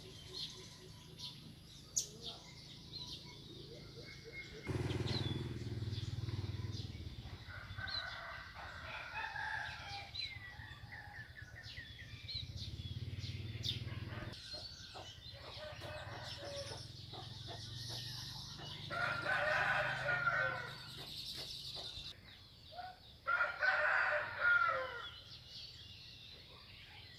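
Chickens clucking with a rooster crowing twice near the end, and small birds chirping.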